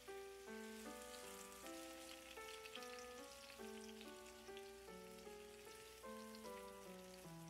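Chicken wings sizzling and crackling in oil in a frying pan as a spatula turns them, under light melodic background music whose notes change several times a second.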